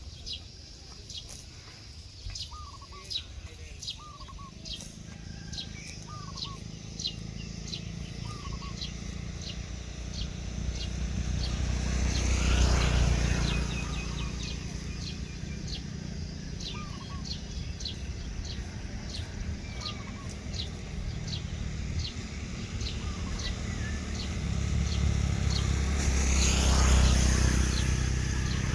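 Outdoor rural ambience: a steady run of short, high chirps about twice a second, with a few brief bird calls in the first half. Two motor vehicles pass, one about twelve seconds in and another near the end, each swelling and then fading.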